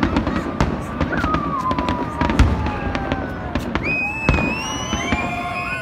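Aerial fireworks going off in a rapid, uneven string of bangs and crackles. Long high tones slide slowly in pitch over them, one falling and more starting near the end.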